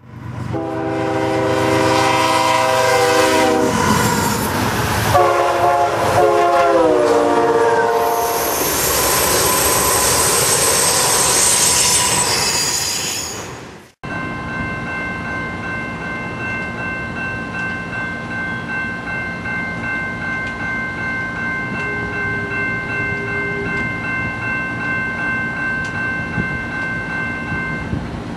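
A train horn sounds its chord in long blasts, the pitch dropping as it passes, followed by high-pitched wheel squeal. After a sudden cut, a freight train led by a diesel locomotive approaches under a set of steady, pulsing high tones.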